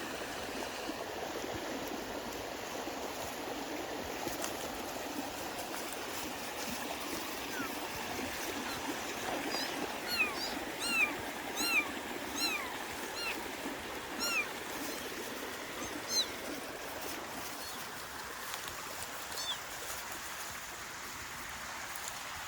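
Flowing water, like a stream, running steadily, with a run of about a dozen short, high, squeaky calls, each dropping in pitch, starting about ten seconds in and fading out after a few seconds.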